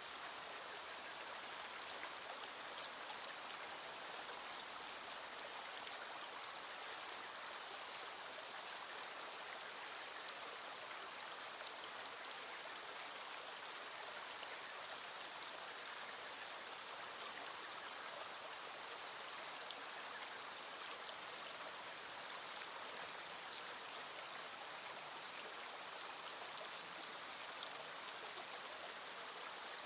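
A small stream running steadily over stones, a constant even rush of water.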